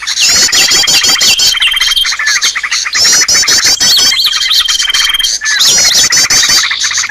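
Bird-lure recording of a loud, dense chorus of many small birds chirping and trilling at once. Rapid strings of repeated chirps overlap lower trills, and twice a single whistle is held steady for about a second.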